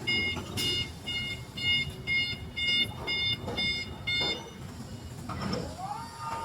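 Electric forklift's warning beeper sounding a repeating electronic beep, about two a second, which stops about two-thirds of the way through. Near the end a whine rises in pitch and then holds steady.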